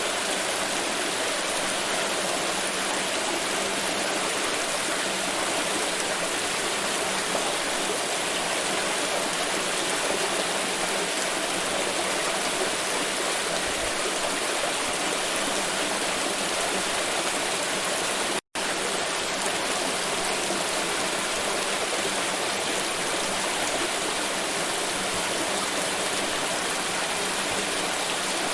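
Steady rush of pouring water, even and unbroken, cutting out for an instant about two-thirds of the way through.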